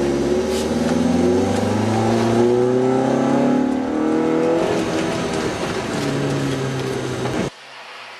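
Car engine heard from inside the cabin, revving hard, its pitch rising and dropping back several times as it is driven on the ice. Near the end the engine sound cuts off suddenly and a much quieter sound follows.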